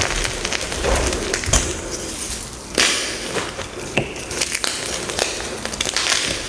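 Blocks of dyed gym chalk being crushed by hand, with a dense crackle of many sharp snaps and crumbling, and a louder crunch about three seconds in.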